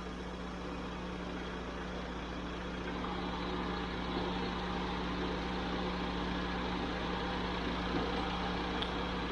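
Small car engine idling steadily with the air conditioning running, while its system is being recharged with refrigerant; the hum gets slightly louder about three seconds in.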